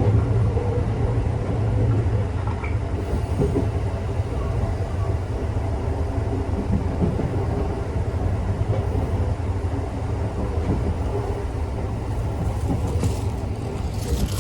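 Local electric train heard from inside the carriage, running with a steady low rumble of wheels on the rails. Near the end a high squeal from the wheels sets in as it approaches its terminus.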